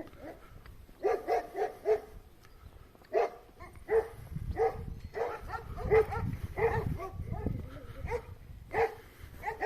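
A dog barking repeatedly in quick runs of short barks, starting about a second in, with a low rumble underneath in the middle.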